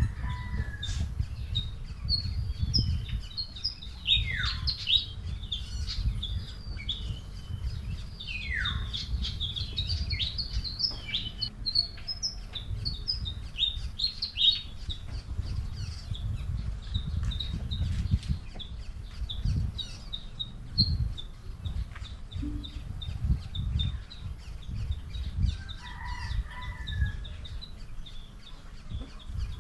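Small birds chirping and twittering in quick, busy bursts, thickest in the first half, with two long downward-sweeping calls a few seconds in. A low rumble runs underneath.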